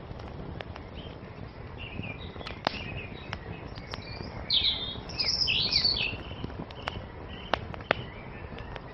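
Songbirds chirping in short twittering phrases, busiest about halfway through, over the steady low hiss of a wood fire with a few sharp crackling pops.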